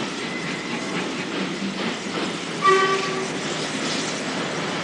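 Railway station din of a train standing at the platform, a steady rumble and hiss. A short train whistle blast of about half a second sounds a little past halfway and is the loudest thing heard.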